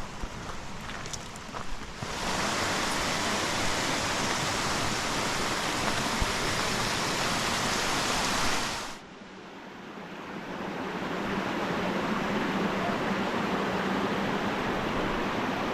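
Steady rushing of mountain creek water. It gets suddenly louder about two seconds in, drops off abruptly near nine seconds, then slowly builds again.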